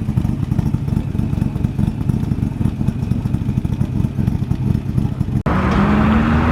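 A car engine running with a loud, rough low rumble. About five seconds in it cuts off abruptly to another engine, whose pitch rises steadily as it revs up or accelerates.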